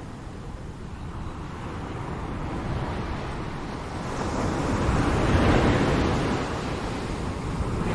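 Ocean waves washing on a shore: a steady surf hiss that swells as a wave breaks about five to six seconds in, then eases back, with the next wave building near the end.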